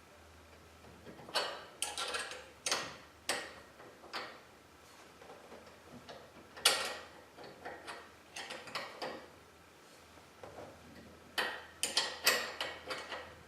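Three clusters of sharp metallic clicks and clanks from garage door hardware and hand tools being worked, with short pauses between them.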